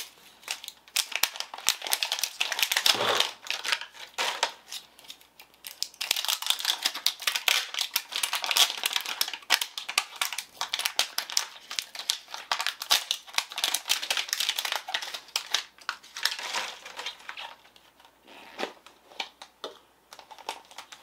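Packaging of a Zuru Snackles blind ball crinkling and tearing as it is unwrapped by hand: a long run of crackling and sharp clicks that thins out about three-quarters of the way through.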